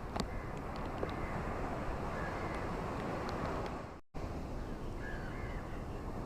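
Ocean surf washing onto a beach as a steady rush of waves, with a few faint bird calls. About four seconds in, the sound fades and cuts out for a split second, then resumes.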